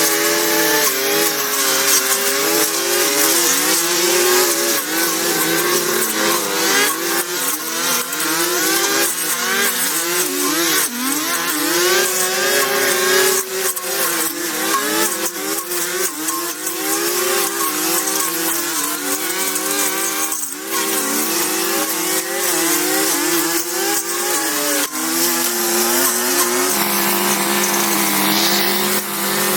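A motor running continuously, its pitch wavering up and down as the load or speed changes, over a steady hiss.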